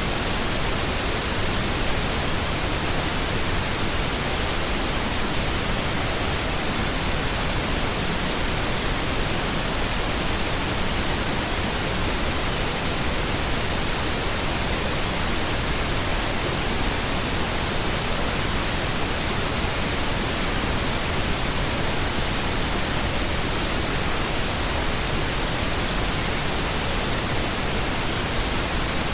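Steady pink noise: an even, unchanging hiss spread across the whole range, heavier in the lows than white noise, with no other sound.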